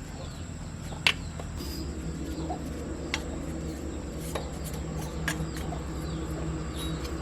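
Faint bird chirps over a steady low hum, broken by four sharp knocks; the first knock, about a second in, is the loudest.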